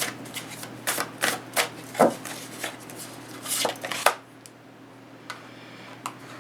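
Tarot cards being shuffled by hand: a quick, uneven run of crisp slaps and flicks for about four seconds, then it stops, with a faint tick or two after.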